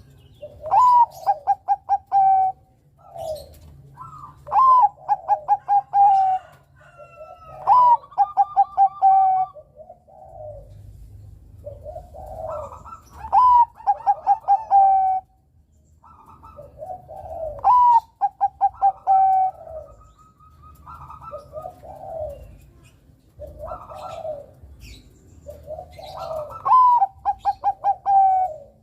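Bangkok-strain zebra dove (perkutut) cooing. Its song phrase repeats about every four seconds: a rising opening note, then a rapid run of short, evenly spaced coos. Faint high chirps come in between the phrases.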